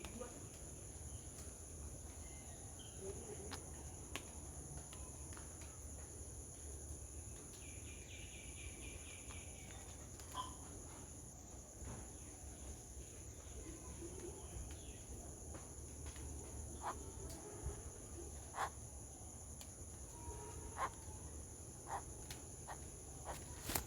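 Faint steady high-pitched drone of insects, with a brief rapid trilling call about eight seconds in and scattered faint clicks and ticks.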